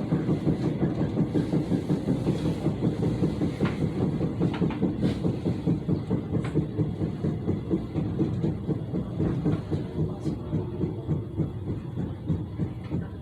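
Gyeongchun Line electric commuter train running on the rails, heard from inside the car, with a regular thudding of about three beats a second from the wheels. The uploader puts the constant thudding down to wheels that have not been reprofiled. The running sound grows quieter toward the end.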